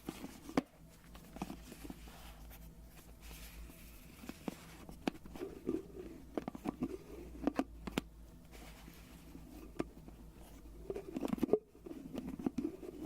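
Scattered soft taps and clicks from an object being handled close to the microphone, coming more thickly near the end.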